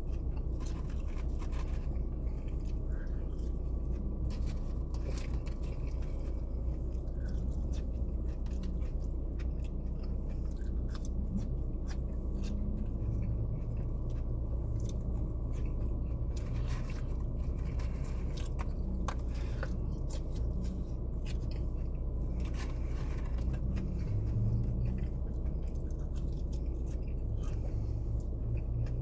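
A person chewing and eating saucy fries, with small scattered crunches, clicks and rustles, over a steady low hum.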